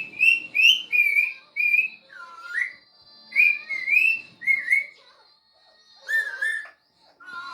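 Parrot whistling a string of short, high notes, several sliding up or down, in two quick runs, then one more note after a pause about six seconds in.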